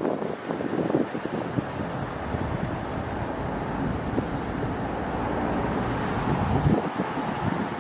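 Low steady rumble of a passing vehicle, with wind buffeting the microphone; the deep part of the rumble cuts off suddenly near the end.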